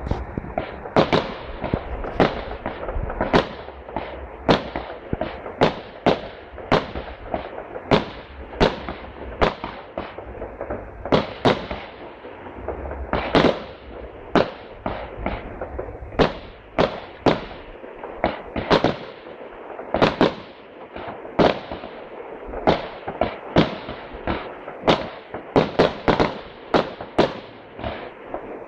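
Fireworks display: a rapid, continuous barrage of sharp firework shell bursts, about one or two bangs a second, each echoing briefly, over a low rumble.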